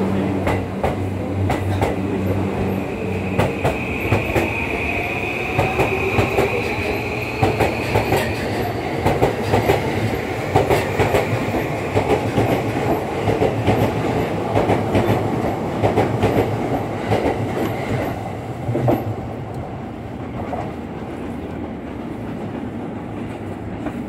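E235-series Yamanote Line electric train running past the platform, its wheels clicking over the rail joints. A high squeal is held for about five seconds in the first half. The sound drops away about twenty seconds in as the last car clears.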